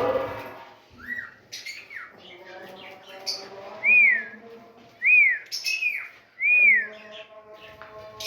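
Birds calling: a harsh call at the start and sharp chirps, then a clear whistled note that rises and falls, repeated about once a second.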